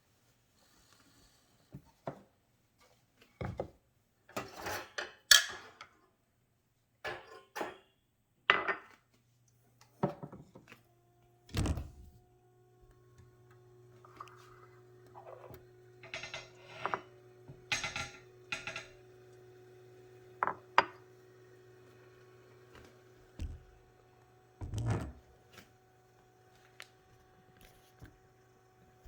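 Knocks and clatter of cups and espresso-machine parts being handled. About nine seconds in, a steady low hum from the La Spaziale Vivaldi II espresso machine starts and keeps running under the knocks.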